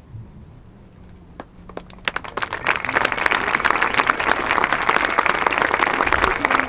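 Crowd applauding: a few scattered claps about a second and a half in, swelling into full, dense applause by about three seconds.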